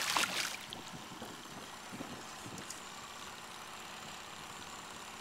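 A fishing boat's motor idling steadily, after a brief loud noisy burst in the first half second.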